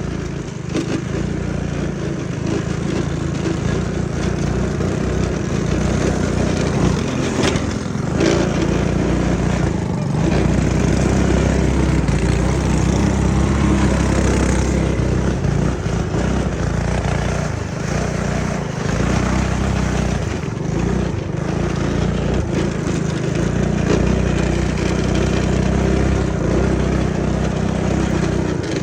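Small engine of a homemade snow vehicle running and revving up and down as it is ridden.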